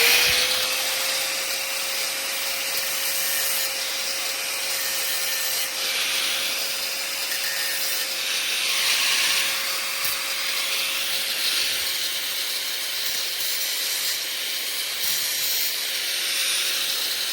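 A small high-speed power tool spins up and grinds into a steel screwdriver tip with a steady whine and a grinding hiss. It is cutting a notch so the tip will fit a tamper-proof screw.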